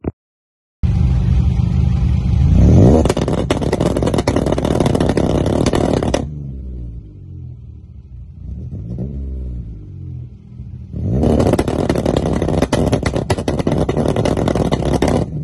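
Supercharged car engine revved hard. It comes in suddenly about a second in, climbs in pitch and is held high for a few seconds, then drops back with a few smaller blips that rise and fall, then revs high again for about four seconds near the end.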